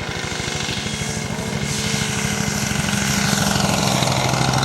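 Radio-controlled scale model airplane's engine running steadily: a droning note with a fast firing pulse that grows slightly louder.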